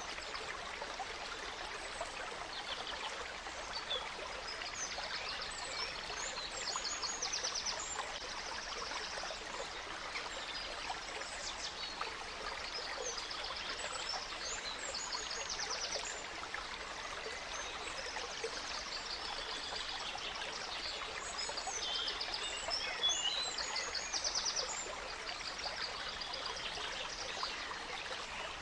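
A small stream running and trickling steadily, with several songbirds singing over it in short chirps and quick trills, busiest about five to nine seconds in and again about twenty-one to twenty-six seconds in.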